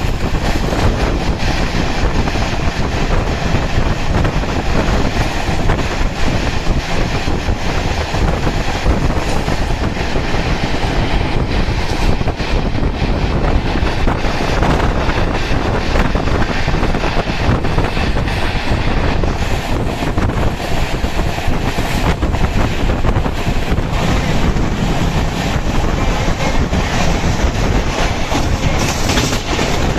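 Passenger express train running at speed: a steady rumble and rush with the wheels clattering over the rail joints, heard from aboard the coach with wind buffeting the microphone.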